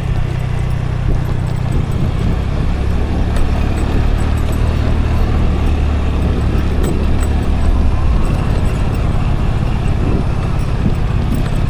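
Scooter engine running steadily while riding, with wind and road noise on the mic; the engine note shifts slightly about eight seconds in.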